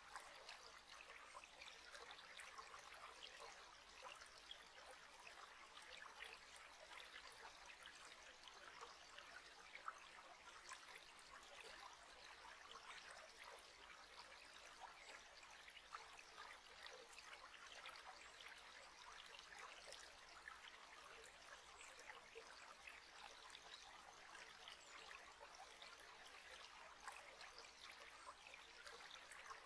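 Faint, steady trickle of running water, like a small stream, full of tiny splashes.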